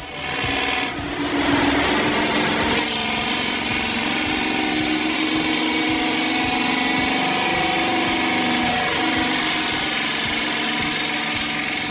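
Detroit Diesel 12V-71 two-stroke V12 in a 1974 Kenworth logging truck, running hard with a steady, high-pitched drone. It grows louder about a second in and dips slightly in pitch near the end.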